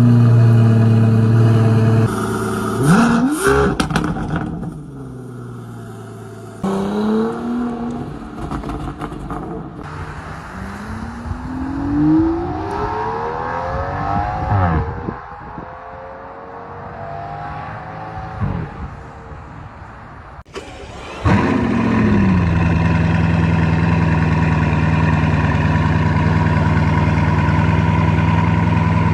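Supercar engines in a string of short clips: an engine running with a quick throttle blip, then rising in pitch as a car accelerates through the revs. Near the end an engine starts with a high flare and settles into a steady idle.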